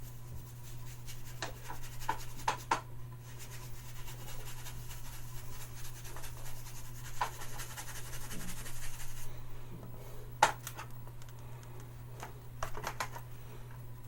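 Wet shaving-brush bristles scratching and rubbing against a shave stick of shaving soap, failing to work up a lather, with a few sharp taps; a soft hiss stops about nine seconds in, over a steady low hum.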